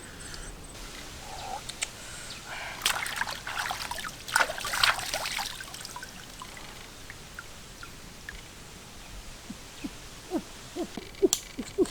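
Water splashing and sloshing for a couple of seconds, then a run of small pitched drips and plinks near the end.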